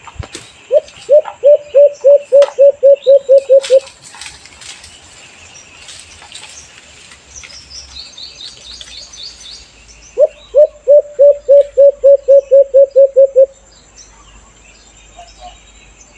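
White-eared brown dove (alimokon) calling: two loud runs of about a dozen short, low hooting notes at roughly four a second, the second run about ten seconds in. Between the runs a smaller bird gives a quick series of high chirps over a steady insect-like hiss.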